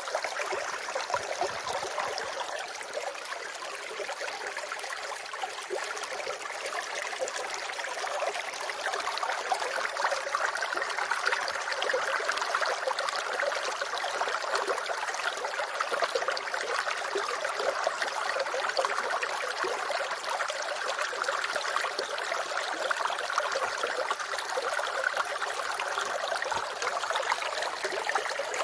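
Water running steadily in a continuous splashing rush that grows slightly louder after the first several seconds.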